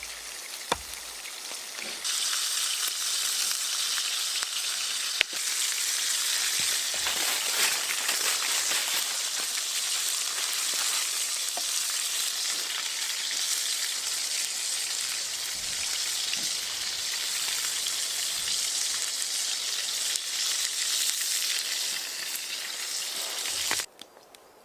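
Food sizzling as it fries in a hot pan: a steady loud sizzle that starts about two seconds in and cuts off suddenly near the end, with a few sharp clicks.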